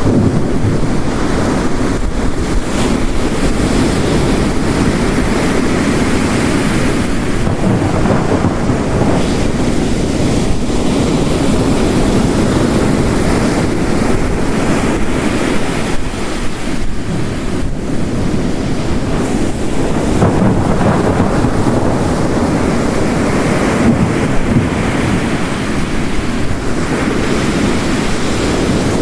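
Storm ambience of ocean waves crashing on a rocky coast layered with heavy rain, a dense, steady rush. The surf swells up twice, once after about six seconds and again past twenty seconds.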